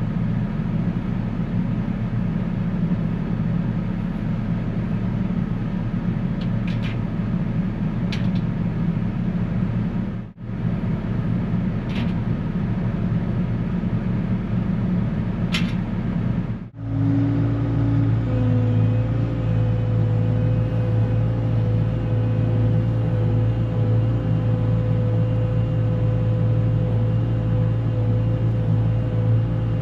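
An engine running steadily, with a few sharp metallic clanks in the first half. The engine note changes after a brief break about seventeen seconds in, as if cut to another stretch of the same machine or another one.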